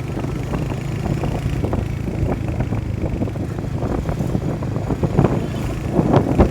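Motorcycle engine running steadily while riding, with wind noise on the microphone and scattered short thumps, loudest about six seconds in.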